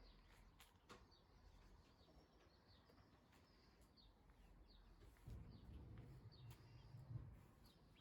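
Faint birds chirping outdoors, short high downward chirps repeated every second or so, over near-silent ambience, with a soft low rumble in the middle.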